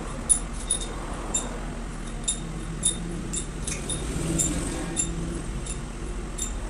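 Light metallic clinks of tools or parts, about a dozen scattered ticks with a brief ring, over a steady low hum.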